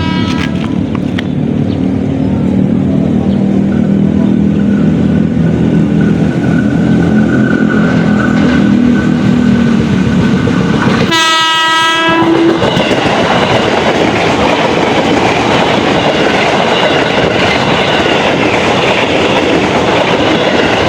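A train running by with a continuous rail rumble; about halfway through its horn sounds once for about a second, and the running noise is fuller after it.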